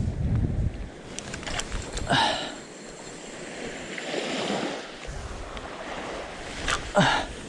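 Small waves washing on a beach, with wind buffeting the microphone. Two short, loud sounds that fall in pitch come about two seconds in and again near the end.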